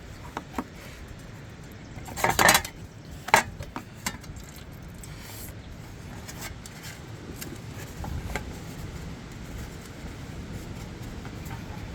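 Metal hand tools clinking and clattering as they are handled, with a loud rattle about two seconds in and a sharp clink about a second later, then scattered lighter clicks.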